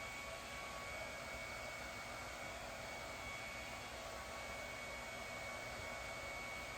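Steady background hiss with a faint high-pitched whine running through it, like a fan or household appliance running.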